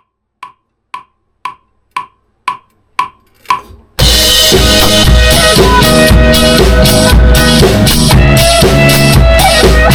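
A count-in of short clicks, about two a second and getting louder, then a little after the third second a drum kit comes in loud, played along with the band recording of a rock song.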